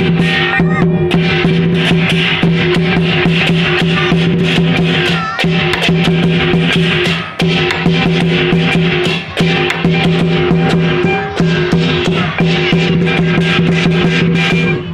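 Lion-dance music: fast, dense drum and percussion strikes over held, droning tones that pause briefly every couple of seconds. The music cuts off suddenly at the very end.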